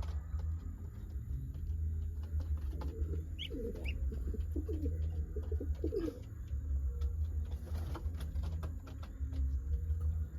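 Pigeons cooing: a run of low, wavering coos from about three seconds in to just past six seconds, with a couple of brief higher chirps among them, over a steady low rumble.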